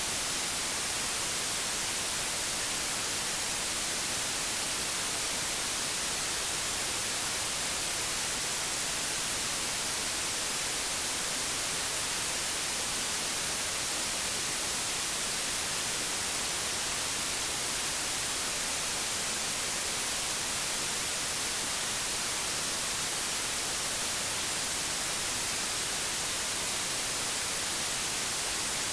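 Steady hiss of analogue television static, an even white-noise rush strongest in the high frequencies, unchanging throughout.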